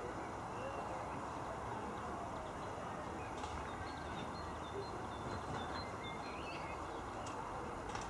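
Faint short bird chirps over a steady background hiss.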